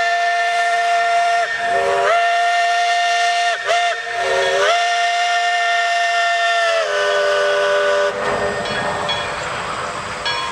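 Narrow-gauge steam locomotive's chime whistle blowing a chord of several notes in the long, long, short, long pattern, the grade-crossing signal. The last blast sags in pitch as it trails off, with steam hiss and train running noise underneath.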